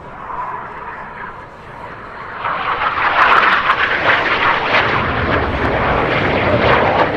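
BAE Hawk T1 display jets with Rolls-Royce Turbomeca Adour turbofans flying by, a rushing jet roar that rises sharply about two and a half seconds in and stays loud.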